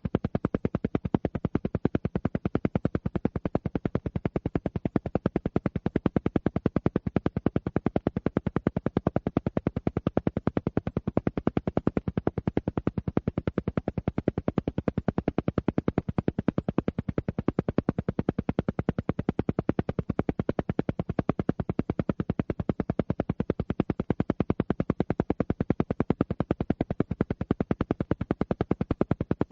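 Alpha-wave brainwave-entrainment audio: a sound pulsing on and off rapidly and evenly at a steady rate, like an isochronic tone, unchanging throughout.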